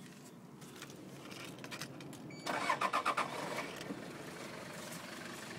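Truck engine started with the ignition key: it cranks and catches about two and a half seconds in, then settles into a steady idle.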